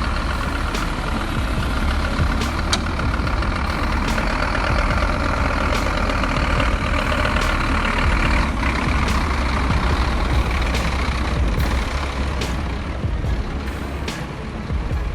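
A heavy vehicle's engine running steadily with a deep rumble, crossed by faint, regular clicks.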